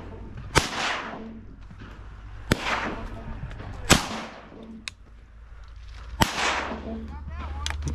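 Shotgun shots: four loud blasts spread over about six seconds, each trailing off in an echo.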